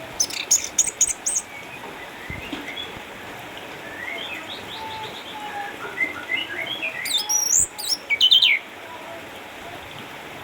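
Orange-headed thrush singing: a quick run of high chirps at the start, softer varied notes through the middle, then a loud warbled phrase about seven to eight and a half seconds in, after which the song stops.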